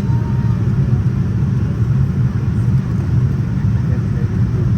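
Steady low rumble of airliner cabin noise from inside a Boeing 787-9: its Rolls-Royce Trent 1000 engines and the airflow past the fuselage, even in level throughout.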